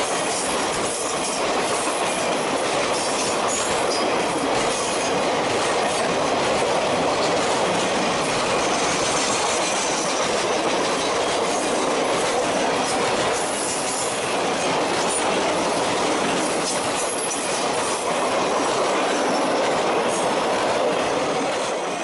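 A Norfolk Southern RoadRailer train, Triple Crown highway trailers riding on rail bogies, rolling past close by: a steady, even noise of steel wheels on the rails.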